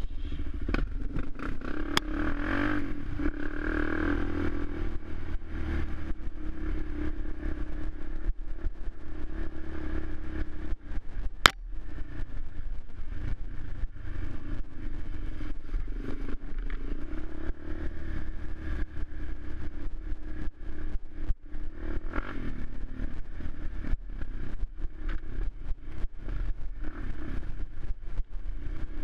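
Suzuki LTZ 400 quad's single-cylinder four-stroke engine running steadily, with one sharp click about eleven and a half seconds in.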